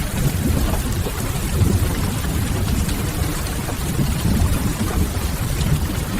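Rain-and-fireplace ambience: a steady hiss of rain over a deep, even low rumble, with faint crackles of burning firewood.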